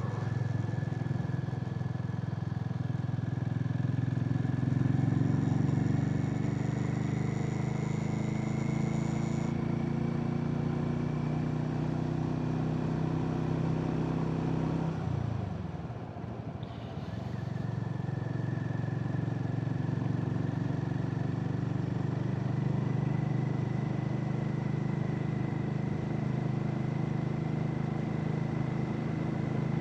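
Harley-Davidson X440's single-cylinder engine running at a steady cruising speed on the road, with a steady high whine over it. About halfway through, the engine note falls and dips briefly as the throttle is eased off, then picks up and runs steadily again.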